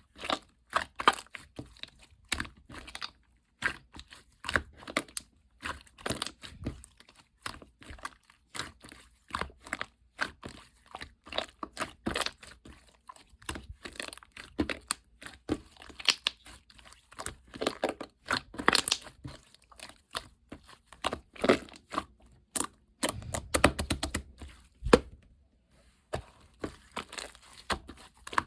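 Slime being squeezed, poked and stretched by hand, giving irregular small crackling pops and squelches, with a longer, deeper squish about two-thirds of the way through.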